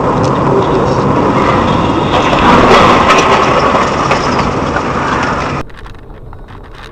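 Loud, dense vehicle noise with scattered cracks and knocks, cutting off suddenly about five and a half seconds in.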